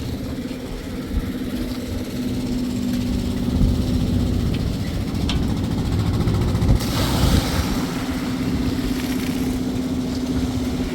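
An engine running steadily at a constant pitch. From about seven seconds in, a rushing hiss joins it for about three seconds.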